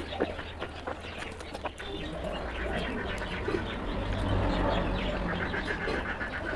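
Wet chewing and lip-smacking of someone eating soft, oily mutton fat and rice by hand, with many small clicks. A steady low hum runs underneath.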